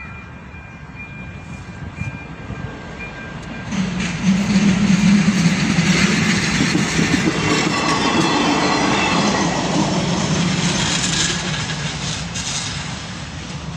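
Regionova class 814/914 diesel railcar passing over the level crossing, its wheels clattering on the rails. It grows loud about four seconds in and fades near the end. Before it arrives, the crossing's electronic warning bell rings with a steady tone.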